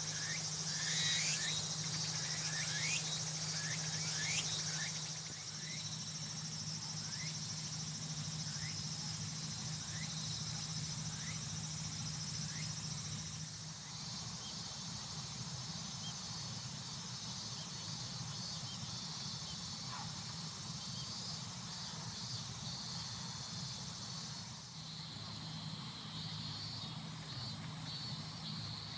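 Chorus of insects trilling steadily at a high pitch, with a short falling call repeated about once a second for the first twelve seconds and a steady low hum underneath.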